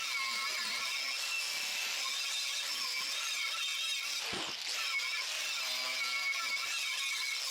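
Angle grinder with a wire wheel running steadily, scrubbing old rubber bead sealer off a sandblasted steel wheel rim, with a high whine and scratching. It dips briefly a little past halfway, then carries on.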